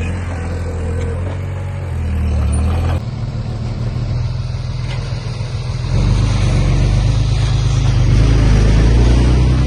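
Heavy earthmoving machine's diesel engine running under load. Its low rumble changes abruptly about 3 seconds in and grows louder about 6 seconds in.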